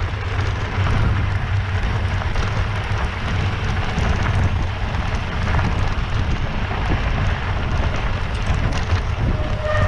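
Steady wind noise buffeting the microphone, a loud, even rushing with a heavy low rumble and no clear pitch.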